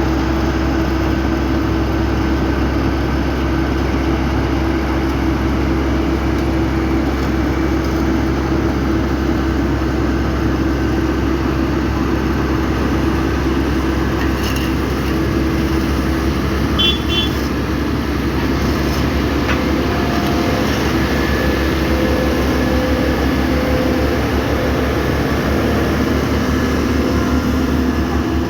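Heavy diesel construction machinery at an asphalt paving job running steadily, a continuous loud engine drone with low rumble. A brief cluster of short high chirps sounds about 17 seconds in.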